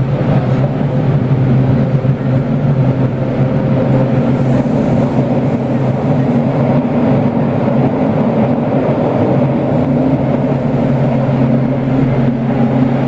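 Toei Oedo Line 12-600 series subway train running at speed through the tunnel: a loud, steady drone with a strong low hum from the linear-motor drive, changing slightly near the end.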